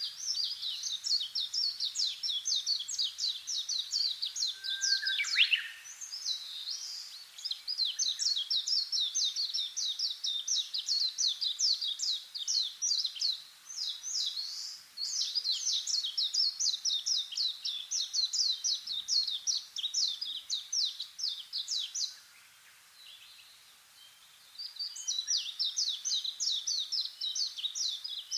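A songbird singing long runs of rapid, high chirping notes with short breaks. There is one lower sliding note about five seconds in, and a pause of a couple of seconds near the end before the song starts again.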